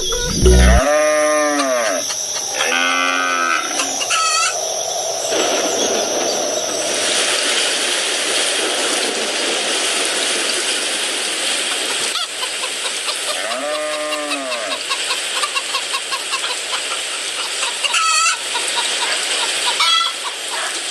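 Farm animal calls: a few drawn-out calls that rise and fall, with short high chirps, over a steady hiss.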